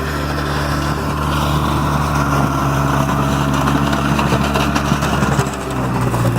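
Two-wheel-drive truck engine running under throttle as the rear tires spin in snow. The engine note holds steady, then dips and changes pitch near the end.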